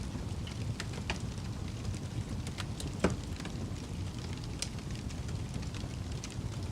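Fire burning in a fireplace: a steady low rumble with scattered crackles and one louder pop about three seconds in.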